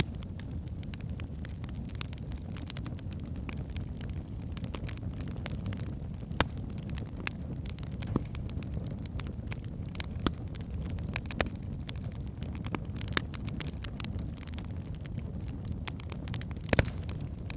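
Wood logs burning in a fireplace: a steady low rumble of flame with scattered crackles and sharp pops, a few of them louder, one near the end.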